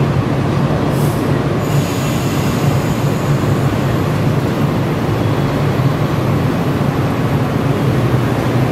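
JR West 113 series electric train starting away from the platform, a steady low running hum throughout, with a short hiss about a second in.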